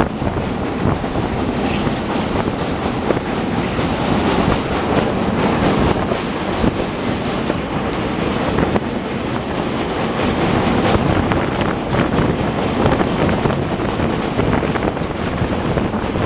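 Passenger train coach running along the track, its wheels clattering over rail joints amid a steady rushing noise, heard from inside the moving coach.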